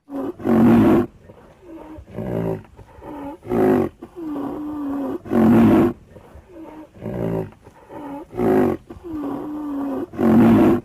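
A big cat roaring repeatedly: about five loud roars spaced roughly two seconds apart, with lower, drawn-out moaning calls in between.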